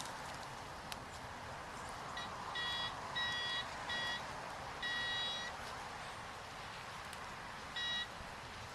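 Metal detector giving short, steady, high beeps as it is swept over the ground, about six at uneven spacing with a longer one near the middle, each signalling a metal target under the coil.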